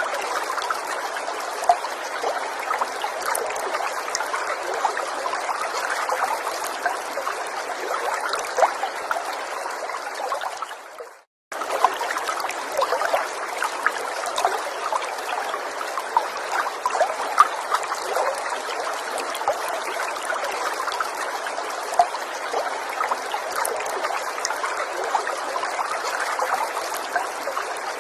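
Small forest stream trickling and babbling steadily, with fine splashing droplets. Just before 11 s in the water sound fades away to a moment of silence, then starts again abruptly.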